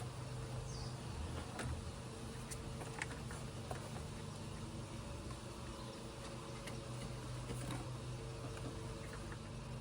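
Scattered faint clicks and light taps over a steady low hum.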